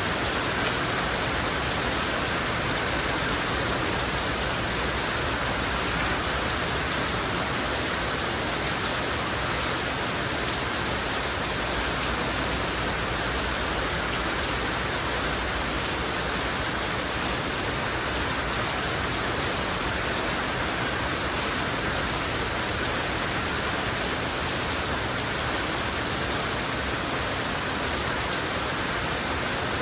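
Heavy rain falling steadily, a constant even hiss of rain with no breaks or distinct drops standing out.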